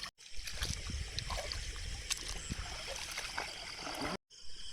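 Water sloshing and splashing at a lake's edge, with scattered small clicks. The sound drops out completely for a moment just after the start and again about four seconds in.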